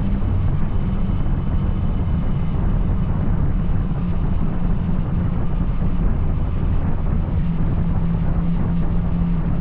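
Yamaha Tracer 900's inline-three engine through an Arrow aftermarket exhaust, running steadily while riding. The pitch of the engine drone shifts slightly, dipping just after the start and rising again near the end.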